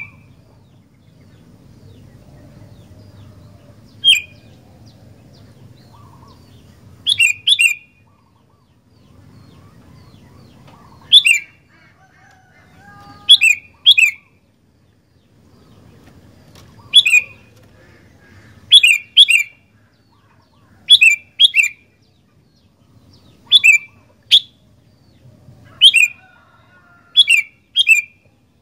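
Sooty-headed bulbul (kutilang) giving short, sharp, falling calls, singly or in quick pairs, every one to four seconds.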